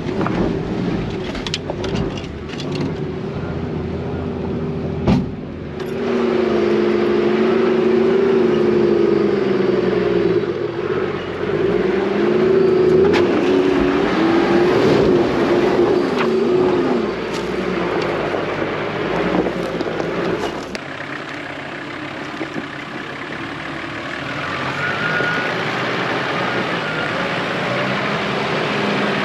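A four-wheel-drive's engine running under load on a rough dirt track, its pitch rising and falling with the throttle. Sharp knocks come in the first few seconds.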